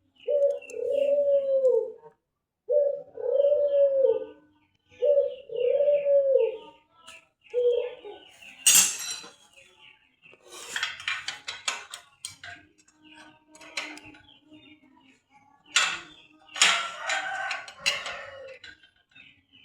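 A dove cooing: five long arched coos, one about every one and a half seconds, over the first eight seconds. After that come sharp knocks and clattering, strongest about nine, eleven and sixteen to eighteen seconds in.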